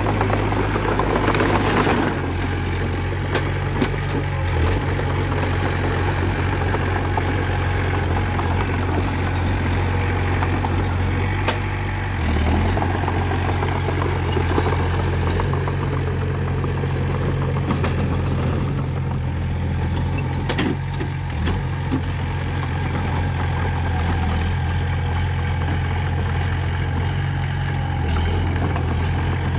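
Diesel engine of heavy earthmoving machinery running steadily, with a louder noisy stretch in the first couple of seconds and a few sharp knocks.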